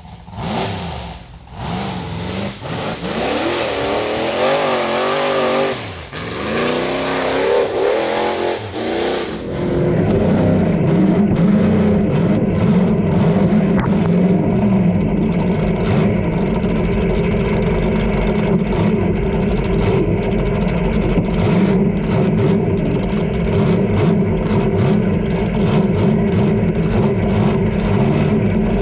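Rock bouncer buggy engine revving in rising and falling bursts, then held at steady high revs for the last two-thirds.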